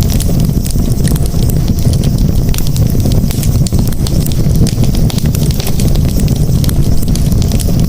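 Campfire crackling, with many small sharp pops and snaps over a steady low rush.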